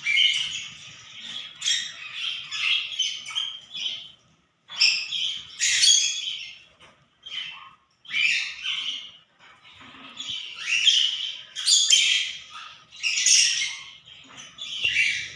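Budgerigar chattering and chirping in a run of short bursts with brief breaks between them.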